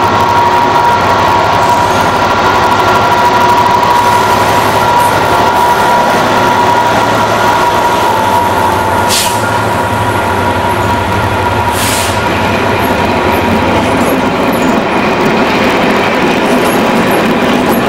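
Diesel locomotive running as it hauls a train past slowly, a steady engine throb with a steady whining tone. Two short hisses come about nine and twelve seconds in, and the engine throb drops away a few seconds before the end, leaving the rumble of the passing vehicles.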